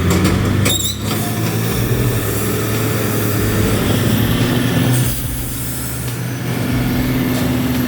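Heavy truck engine running with a steady drone over loud road and rumble noise, with a brief sharp clatter about a second in.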